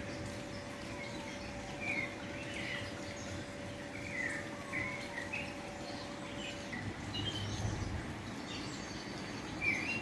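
Small songbirds giving scattered short chirps over a steady outdoor background hiss. A faint steady hum stops about seven seconds in.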